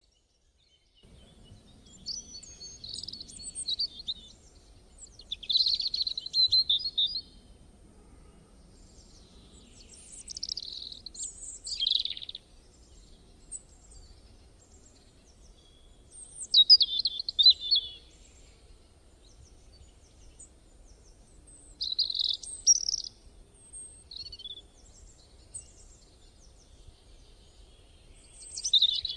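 A songbird singing in short bursts of rapid chirps, about six phrases a few seconds apart, over a faint low rumble.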